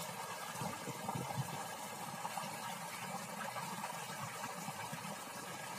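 Steady wind buffeting the microphone: a fluctuating low rumble under an even hiss.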